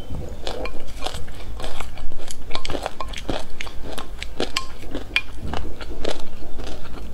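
Close-miked chewing of a mouthful of black and white sesame seeds with passion fruit: dense, irregular crunching and crackling. A wooden spoon scoops in a glass bowl now and then.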